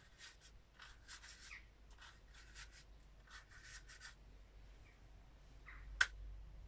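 Leaf-bundle plant brush brushing and dabbing ink onto paper in a series of short scratchy strokes, then a single sharp tap about six seconds in.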